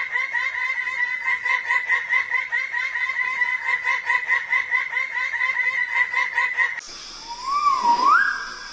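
A bird calling in a fast, even, laugh-like chatter of repeated pitched notes. About seven seconds in it gives way to a different call: a rising whistled note over a steady hiss.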